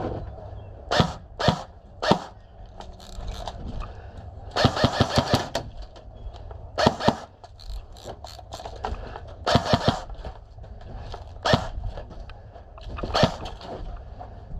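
Airsoft gun firing sharp single shots and one quick burst of about eight rounds, over a steady low rumble.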